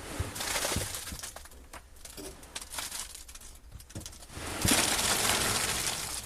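A heavy wheelbarrow load of wet concrete being tipped and sliding out, a gritty rush with knocks, loudest in a long rush about four and a half seconds in.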